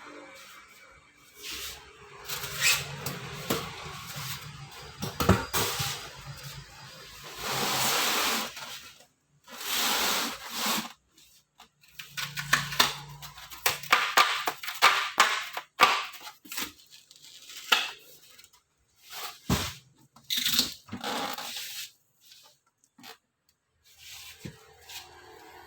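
Packaging being torn, scraped and pulled off a new freezer during unboxing: a run of irregular rustling and tearing noises, some lasting about a second, with a sharp knock about three-quarters of the way through.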